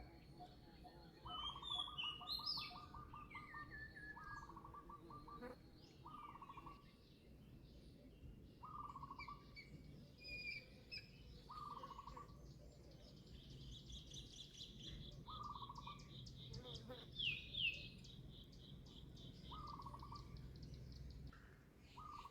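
Birds calling: one short buzzy call repeated every one and a half to two seconds, with scattered higher chirps and a long high trill through the middle.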